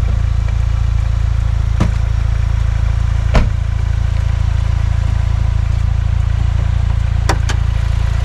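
Mitsubishi Lancer Evolution IX's turbocharged four-cylinder idling steadily, with a few short sharp knocks over it, the loudest about three and a half seconds in.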